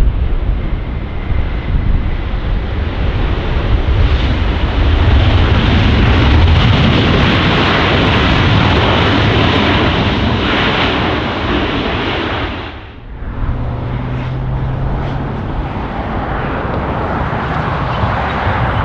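Boeing 777-200ER jet engines roaring as the airliner passes on its landing approach. Just before the halfway point the sound drops away suddenly, and a quieter jet roar with a steady low hum follows.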